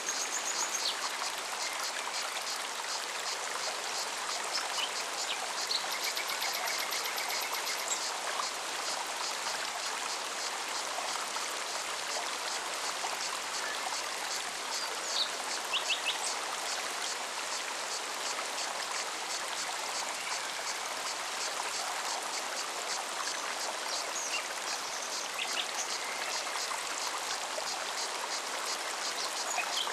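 Mountain forest stream running steadily over rocks, with a cicada's fast-pulsing high chirr over it and a few short bird chirps.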